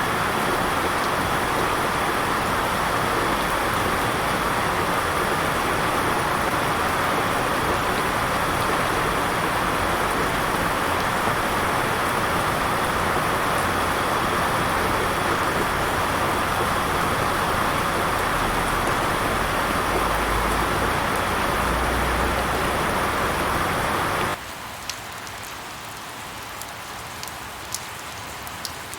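Steady, loud rain hiss. About 24 seconds in it cuts abruptly to a quieter rain recording with separate drops ticking now and then.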